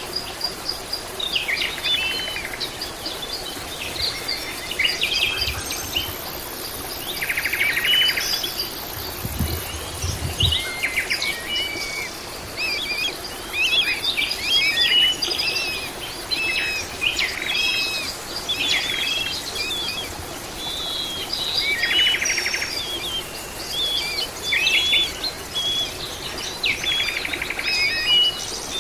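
A chorus of many birds chirping and trilling, with overlapping short calls and several buzzy trills throughout. A faint, steady high insect buzz sits underneath, and a brief low rumble comes about ten seconds in.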